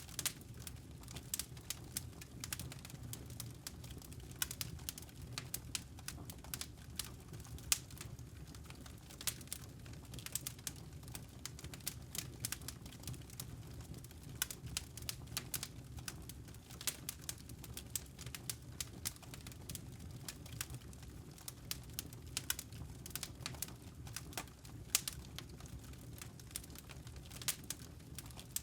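Campfire of burning logs crackling, with irregular sharp pops and snaps over a low, steady rumble of the flames.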